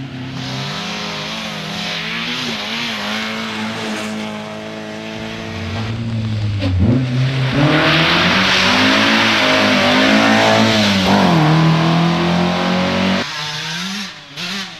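Rally car engine revving hard, its pitch climbing and dropping with throttle and gear changes. The car passes close in a loud rush of engine and tyre noise in the second half, which cuts off suddenly near the end.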